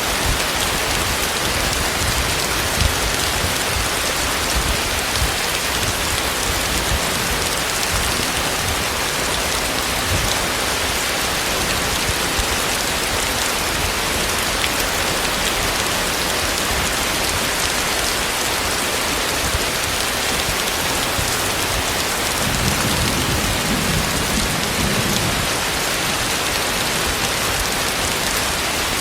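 Heavy rain falling steadily, a dense even hiss of drops on surfaces, with a low rumble rising and fading about 23 to 26 seconds in.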